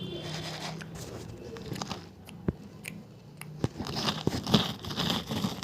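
Someone biting and chewing hard, brittle banslochan (tabasheer, bamboo silica): a few sharp cracks, then dense crunching in the second half.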